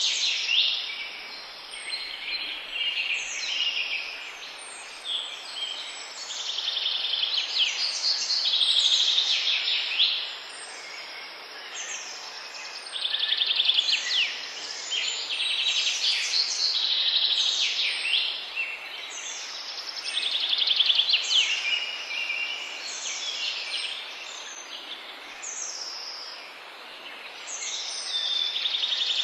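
Songbirds singing: an unbroken run of high trilled and chirping phrases, one after another, over a faint steady background hiss.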